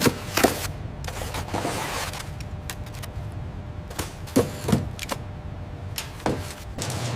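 A few irregular sharp clicks and knocks over a steady low hum.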